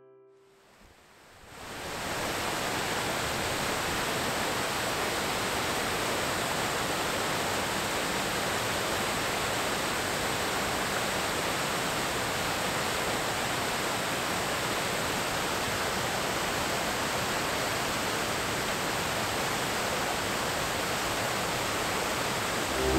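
Steady rush of river water pouring through a rock channel and falls, fading in over the first two seconds and holding even.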